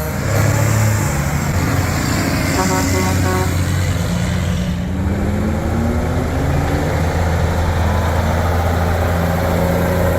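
Heavy diesel truck engine running loud as the truck pulls away, its pitch climbing over a few seconds midway as it accelerates. A short horn toot sounds about two and a half seconds in.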